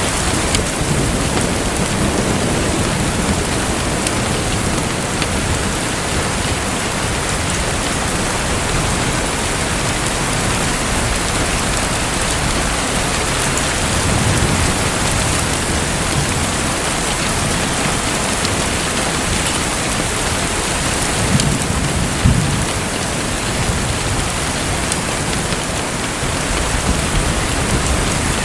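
Steady, even rushing of water, like heavy rain, with low rumbles swelling up three times.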